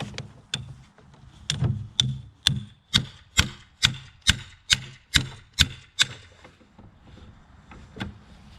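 Hammer blows: a couple of knocks, then a steady run of about a dozen sharp strikes at roughly two a second, stopping about six seconds in, with one lighter knock near the end.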